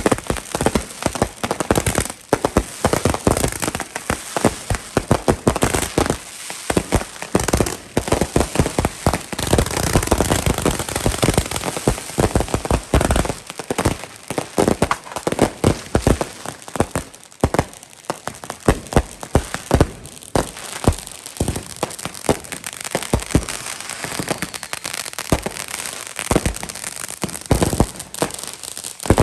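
Fireworks crackling in a dense, rapid run of small pops and cracks, with louder bangs scattered through; the crackle eases off somewhat in the last third.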